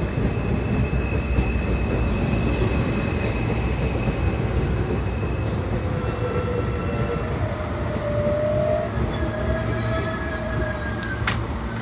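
New York City Subway L train pulling into the station, its wheels rumbling and squealing with several steady high tones as it slows, ending with a sharp click.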